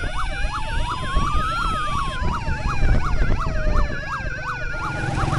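Several police vehicle sirens sounding at once: a fast yelp of about three rising-and-falling sweeps a second over a slower wail that rises to a peak about one and a half seconds in and then falls away. Engine and traffic rumble runs beneath.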